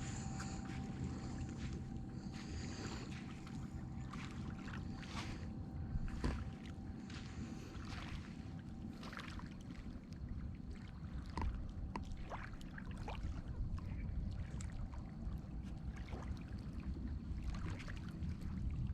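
Water lapping and splashing in short irregular bursts over a steady low rumble.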